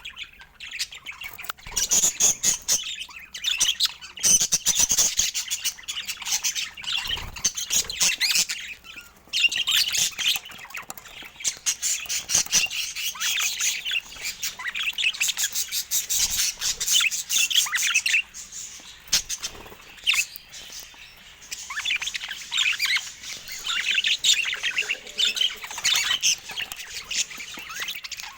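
Budgerigars chattering, a dense run of rapid chirps, clicks and warbles with brief lulls about a third and two-thirds of the way through.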